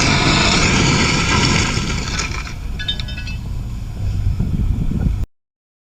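Car and road noise from a vehicle, loud and steady at first, then easing, with a brief run of high chirping tones about three seconds in. It cuts off abruptly near the end.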